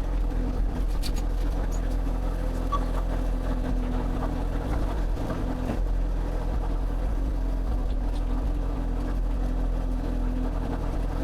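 Excavator engine running steadily at an even speed, a low, unchanging drone.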